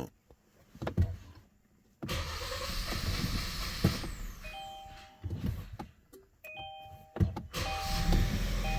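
Kia Sorento 2.0 turbo engine cranking and starting, running rough on a two-cylinder injector misfire during scan-tool injector kill tests. The car's warning chime sounds in short repeated two-tone beeps over it.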